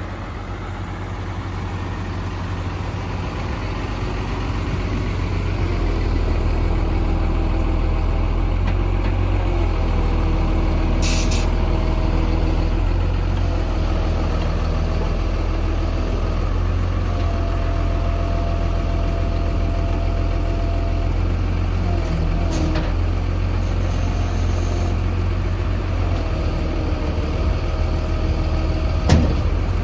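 A 1994 Freightliner boom truck's diesel engine runs, speeding up over the first few seconds and then holding steady while it drives the hydraulics that work the boom and outrigger legs. A whine steps up and down in pitch several times, and a short hiss of air comes about eleven seconds in.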